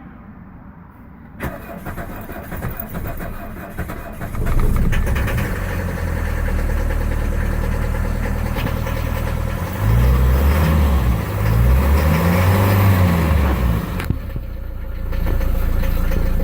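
Mercedes 240D four-cylinder diesel cold-started with the accelerator floored: the starter cranks for about three seconds before the engine catches and runs. Its speed rises and falls for a few seconds, then it settles into a steady fast idle, with the idle adjuster turned all the way up.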